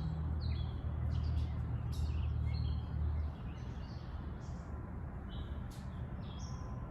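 Small birds chirping in short, repeated calls over a low rumble that is heavier for the first three seconds or so, then eases off.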